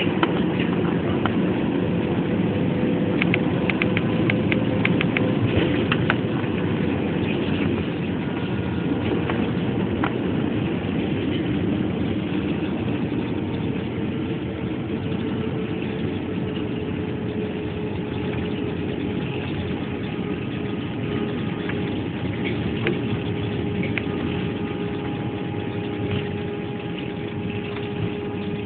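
Steady cabin noise of a jet airliner in flight, from the engines and the rushing air, with a faint steady hum that slowly lowers in pitch and a few small clicks.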